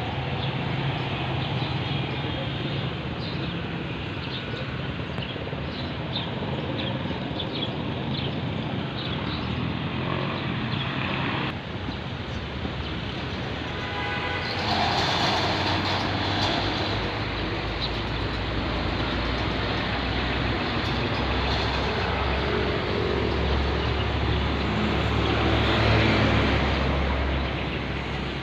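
Motor vehicle running with road and traffic noise, a steady rumble that gets louder about halfway through.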